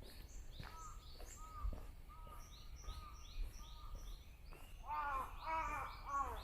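Small birds singing in a chorus of quick, high, down-slurred chirps and repeated short whistled notes. Near the end a crow caws three times, harsh and loud.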